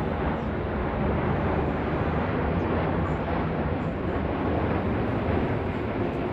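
Jet airliner engines running, a loud, steady noise with no distinct tones and no sudden changes.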